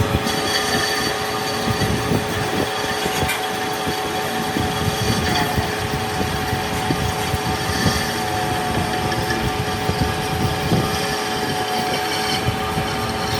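Workshop machine running steadily with a constant whine, over an irregular rattling and knocking.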